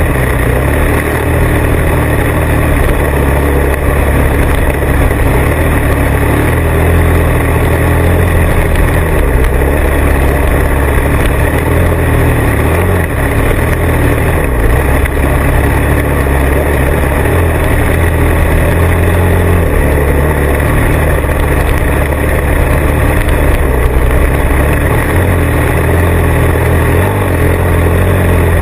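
Motorcycle engine running steadily while riding, a loud low rumble that shifts a little in pitch now and then with the throttle.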